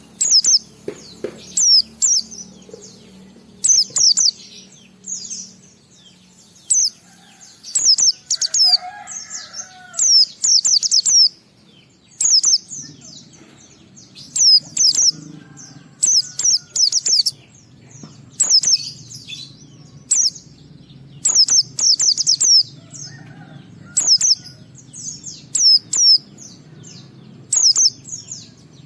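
A pleci (white-eye) singing in short, rapid, high-pitched chirping phrases, repeated every second or two.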